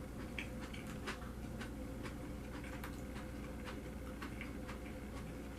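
A person eating, close to the microphone: irregular small clicks and mouth smacks of chewing, over a steady low hum.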